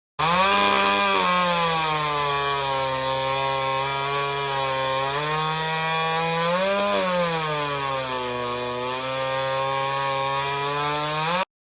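Vintage chainsaw engine cutting wood. Its pitch drops as the bar bites in, rises briefly around six to seven seconds, then settles lower again under load.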